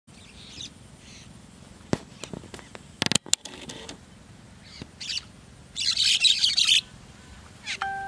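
Small birds chirping over a rice field, short scattered calls, then a burst of dense high chattering about six seconds in. A few sharp clicks come around two and three seconds in, and a steady held note sounds near the end.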